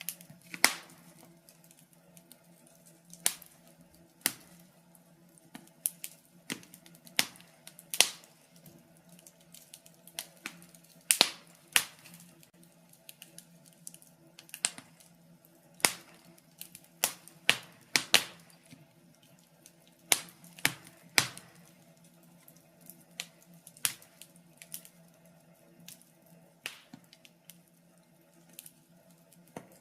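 Wood fire crackling: irregular sharp pops and snaps, some loud and many soft, over a faint steady low hum.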